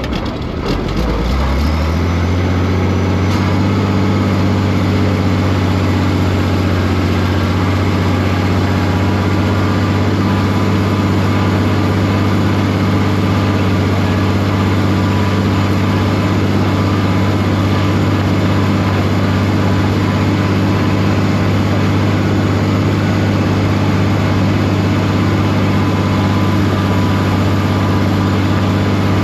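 International tractor engine revving up over the first couple of seconds, then running steadily at high revs.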